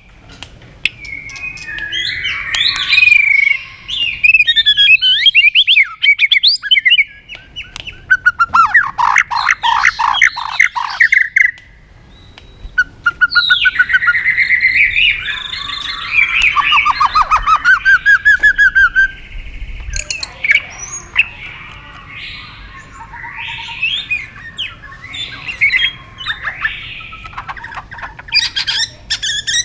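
White-rumped shama singing a long, varied song: whistled phrases, fast trills and harsh notes, delivered in bursts with short pauses between them.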